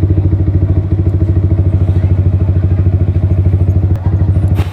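Yamaha R15 V3's 155 cc single-cylinder engine running steadily through a Daytona Evolution aftermarket exhaust, an even, bassy pulsing beat. A sharp knock sounds near the end.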